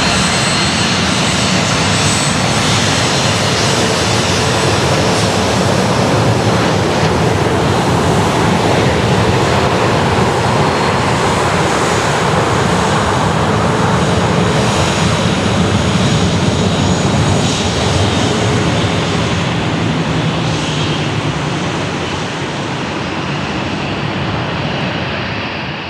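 Boeing 737-800's CFM56-7B jet engines, loud and steady, fading somewhat over the last few seconds.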